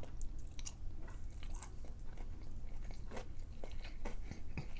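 Close-miked chewing and biting of a person eating, with many small wet, crisp mouth clicks, over a low steady hum.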